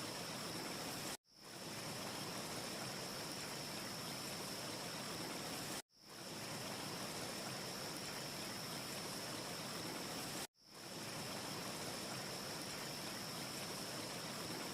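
Steady rushing hiss of a wind ambience recording with a faint high whistle in it. It cuts out abruptly three times, about every four and a half seconds, and fades back in each time: the seam of a short loop repeating.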